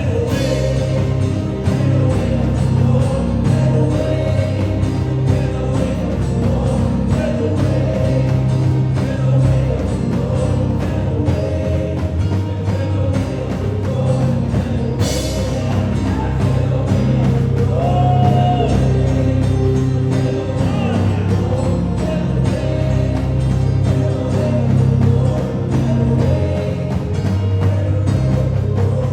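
Live gospel worship music: a band with a steady drum beat and heavy bass playing under singing.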